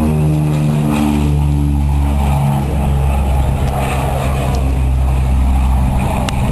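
Aircraft flyby in a heritage formation of a P-38 Lightning and an A-10 Thunderbolt II. The propeller-engine drone falls in pitch as the aircraft pass during the first couple of seconds, then gives way to a steady rushing roar.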